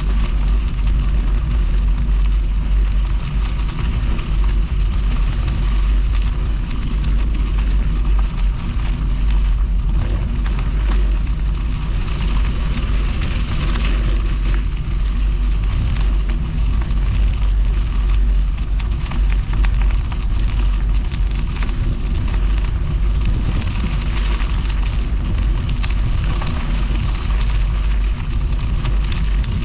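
Wind buffeting the microphone of a camera on a moving bicycle: a steady, loud low rumble. Under it runs the continuous hiss of bicycle tyres rolling along a path.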